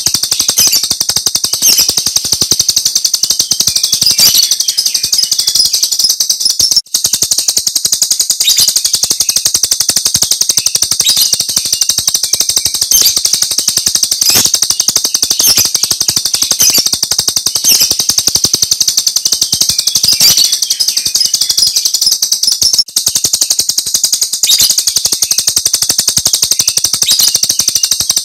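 Jalak Rio starling song looped as a training recording: a loud, high, very rapid rattling chatter like machine-gun fire (the 'tembakan' call), running without pause except for two brief breaks, about 7 s and about 23 s in.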